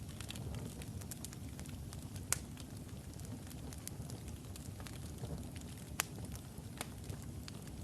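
Wood logs burning in a fireplace: a steady low rumble of the flames with scattered sharp crackles and pops, two louder pops about two and a half and six seconds in.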